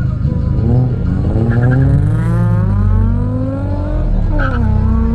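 Dodge Neon SRT-4's turbocharged 2.4-litre four-cylinder heard from inside the cabin, launching and accelerating at full throttle in a drag race. Revs climb steadily, drop sharply at an upshift about four and a half seconds in, then climb again.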